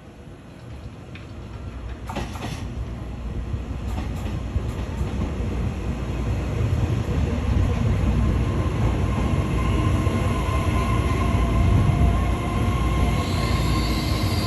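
Taiwan Railway Tze-Chiang limited express train running into a station, its low rumble growing steadily louder as it approaches. In the last few seconds high, steady squealing tones come in as it brakes.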